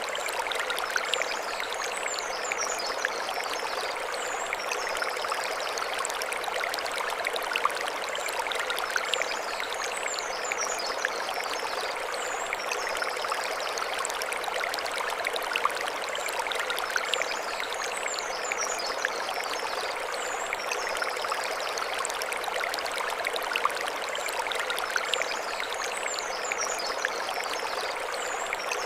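Mountain stream running over stones, a steady splashing rush. Over it, a short run of high chirps comes back about every four seconds.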